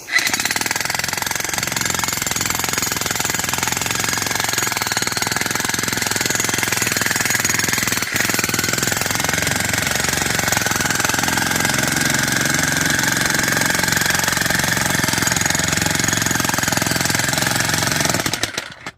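Electric demolition hammer (jackhammer) chiselling into hard, rocky ground. It runs continuously, breaks off for an instant about eight seconds in, and stops shortly before the end.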